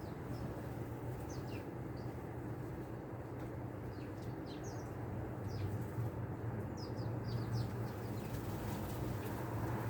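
Small songbirds giving short, high, scattered chirps, several in quick groups, over a steady low hum.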